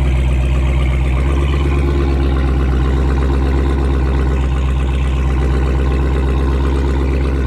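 Dodge Charger Hellcat's supercharged 6.2-litre V8 running at a steady idle, loud through a muffler-deleted exhaust, still warming up after a cold start.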